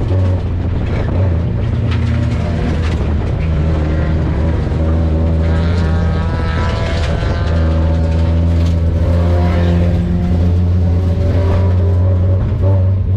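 Onboard sound of a Mazda Miata's four-cylinder race engine running steadily, with a higher engine note rising and falling in the middle.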